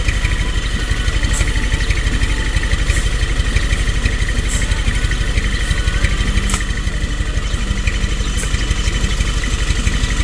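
Hino Dutro truck's diesel engine running steadily, with a faint click every couple of seconds.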